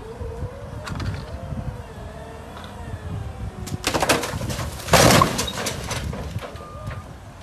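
A tall wrapped load toppling off a raised forklift and crashing down onto a utility trailer, in two loud clattering crashes about a second apart, after a wavering whine. Near the end a forklift's reversing beeper starts, beeping about once a second.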